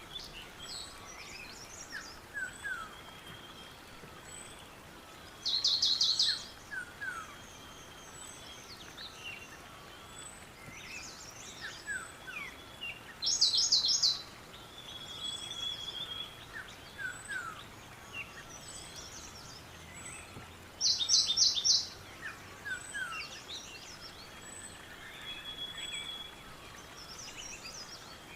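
Several songbirds calling and singing. One bird repeats a loud phrase of quick, rapid notes about every 7 to 8 seconds, while others give short downslurred chirps and thin whistles in between, over a faint steady hiss.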